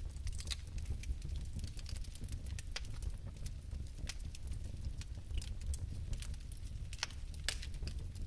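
Fireplace fire crackling, with irregular sharp pops over a steady low rumble of flame. The loudest pops come near the end.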